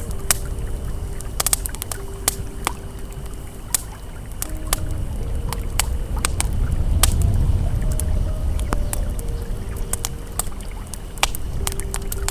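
Campfire crackling with frequent sharp pops, over the steady low rush of flowing river water that swells a little midway. Soft, sustained ambient music tones step slowly from note to note underneath.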